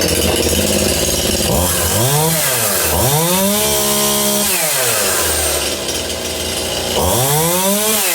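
Stihl MS181 two-stroke chainsaw running without choke on its restart, idling between three throttle blips: a short one about two seconds in, a longer rev held at the top for about a second from three seconds in, and another near the end. It keeps running, showing that the earlier start after gummed-up old fuel was not a fluke.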